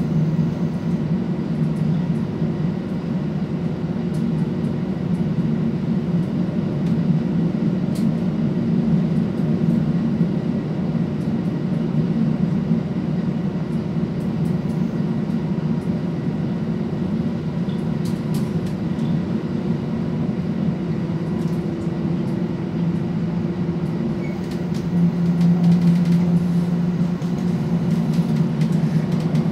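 Cabin noise aboard a Regio-Shuttle diesel railcar under way: a steady low drone of its underfloor diesel engine with wheel-and-rail running noise and a few faint clicks. The engine note grows louder about 25 seconds in.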